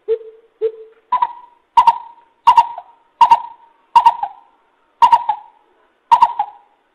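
Coucal (bubut) giving a series of deep hooting notes, nine in all, under a second apart; the first two are lower and the rest are pitched higher.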